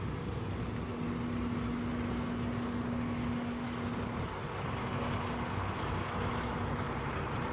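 Steady motor-vehicle noise from the road, a constant engine hum over a rushing haze, with the hum dropping away about halfway through.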